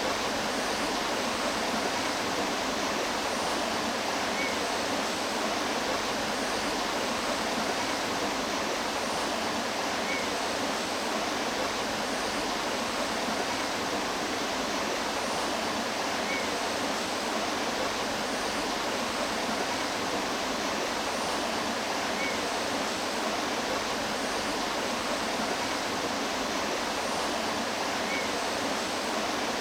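Water of a mountain stream rushing steadily over rocks.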